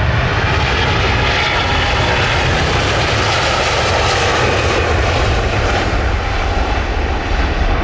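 Jet airliner passing close by: a loud engine roar over a low rumble, swelling to its peak about three to four seconds in and then easing off.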